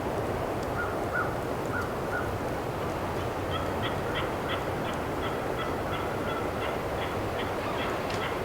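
Wild turkeys calling faintly: a few short notes about a second in, then a steady series of short notes through the second half, over a constant background hiss.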